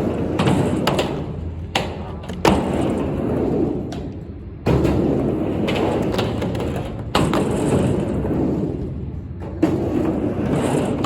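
Skateboard wheels rolling back and forth across a mini ramp, the rumble swelling and fading with each pass, with about five sharp knocks of the board hitting the ramp or coping.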